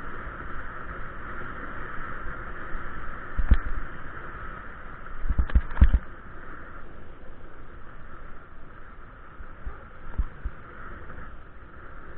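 Steady rushing noise of riding a bike, with a few low knocks: one about three and a half seconds in, a quick cluster around five and a half to six seconds, and a softer one near ten seconds.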